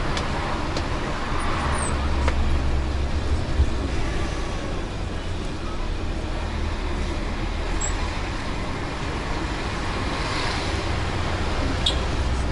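Bus engine and road noise heard from inside the moving bus: a steady low rumble with a hiss of tyres and wind, and a few faint knocks.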